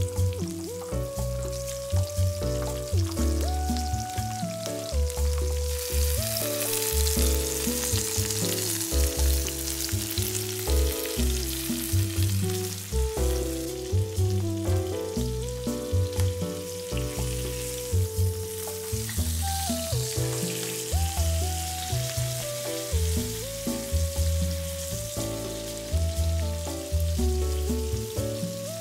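Pork tenderloin and garlic cloves frying in hot oil in a pan, sizzling steadily; the sizzle grows louder about six seconds in. Background music with a melody and a steady bass beat plays throughout.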